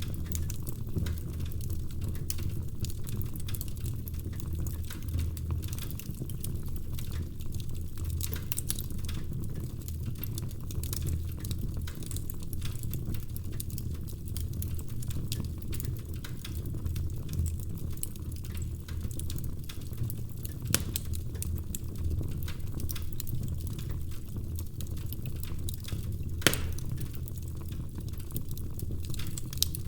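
Wood fire burning in a fireplace, crackling steadily over a low rumble of the flames, with two louder sharp pops from the logs, one about two-thirds of the way in and one near the end.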